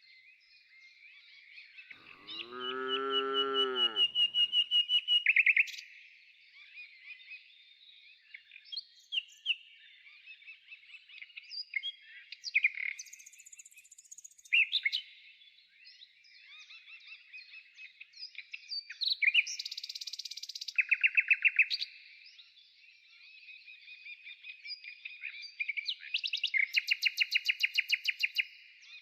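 Small birds chirping and singing in quick repeated trills. From about two to four and a half seconds in, a longer, lower animal call rises and falls in pitch beneath them.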